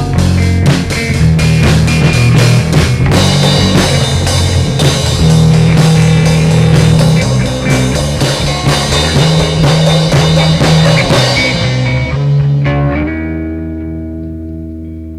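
Rock band playing: drum kit, guitar and bass. About thirteen seconds in the drums stop and a held chord rings on, fading out as the song ends.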